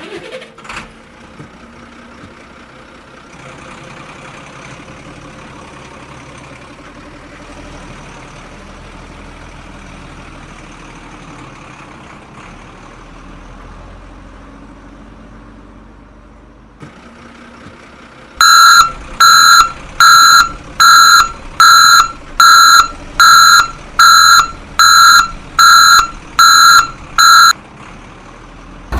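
Electronic reversing beeper on a vehicle sounding about a dozen loud, even, high-pitched beeps at a little over one a second, starting about two-thirds of the way in. Before them there is only a faint steady hum.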